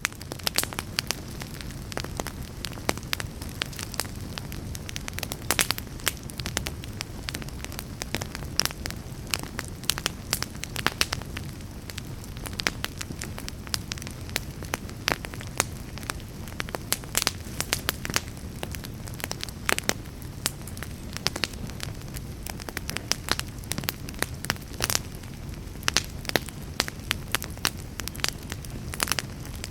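Wood fire burning in a fireplace: a steady low rush of flame with frequent sharp crackles and pops from the burning logs.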